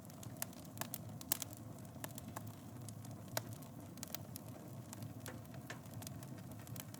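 Wood fire burning in a fireplace, with a steady low rumble of flames and frequent irregular crackles and pops; one sharper pop about a second in and another a little past the middle.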